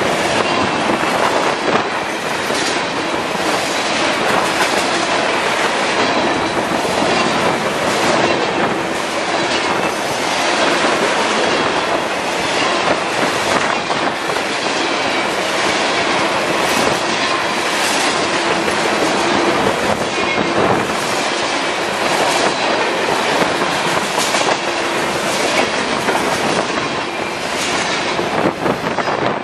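Freight train of railroad tank cars passing close by: the steady rush and rumble of steel wheels on rail, with a regular clickety-clack that swells about once a second. The noise falls away suddenly near the end as the last car clears.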